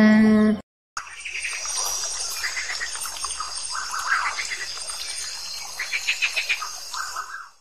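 An alpaca call, one steady pitched note, runs at the very start and is cut off within a second. After a brief gap comes a natural backdrop of birds chirping over a steady high insect buzz, with a quick run of chirps about six seconds in.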